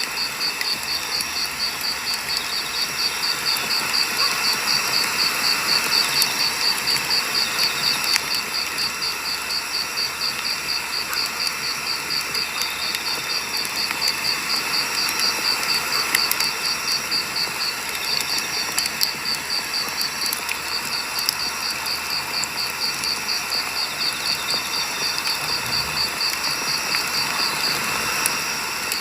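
Firewood burning, crackling steadily with occasional sharp pops. Over it runs a high-pitched chirping pulse, about three or four a second, that never stops.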